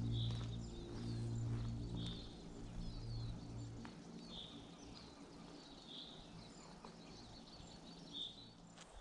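Forest birds calling: a short call repeated every couple of seconds, with thinner high chirps between. A low steady hum sits under them and fades out about four seconds in.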